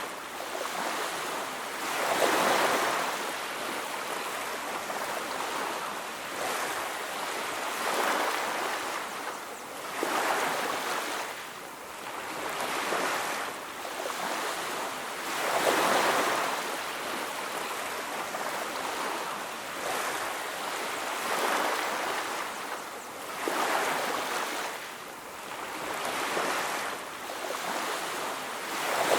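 Ocean surf breaking on a beach: a continuous wash of water that swells and falls away every few seconds as each wave comes in.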